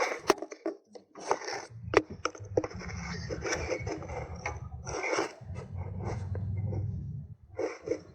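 Hand tools and small metal parts of a gear-shift actuator being handled: a run of clicks, knocks and scraping with a low hum beneath.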